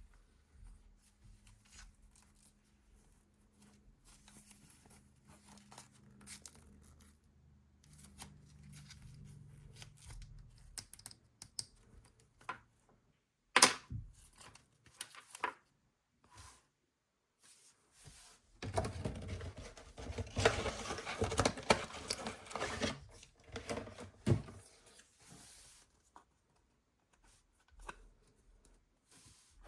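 Blind-box packaging being handled and torn open by hand: scattered small clicks and rustles, one sharp click about halfway, then several seconds of dense tearing and crinkling.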